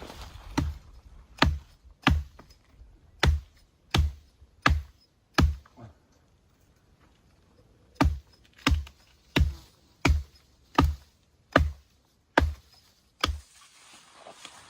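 Repeated heavy blows of a hand tool on wood, about one every 0.7 seconds, in two runs of about eight strikes with a pause of roughly two seconds between them.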